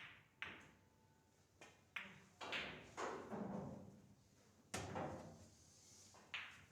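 Pool balls clacking: about seven sharp, irregularly spaced clicks of cue on cue ball and balls striking one another during play.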